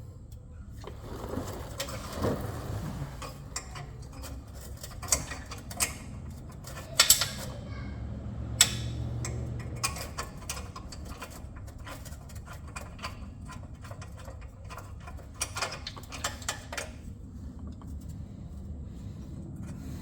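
Hand tools working on metal parts: irregular clicks and clinks with a few sharp, louder clanks, over a steady low hum.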